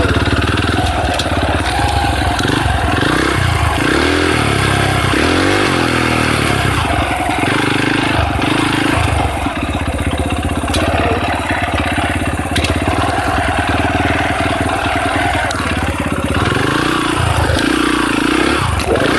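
Dirt bike engine running steadily while being ridden, its pitch rising and falling several times as the throttle is opened and closed.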